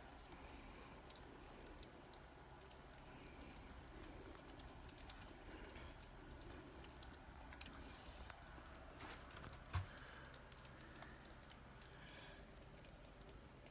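Near silence: faint snowy outdoor ambience with scattered light ticks and one soft knock about ten seconds in.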